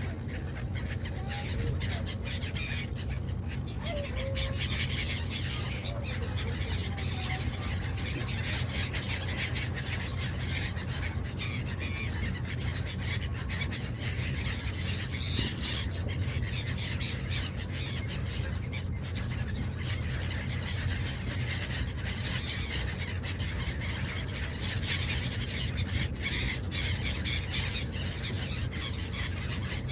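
A flock of seagulls squawking and calling continuously, many short overlapping cries, over the steady low drone of a boat's engine.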